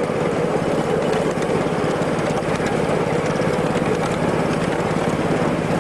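A small engine running steadily, with a low hum and a fast, even pulse.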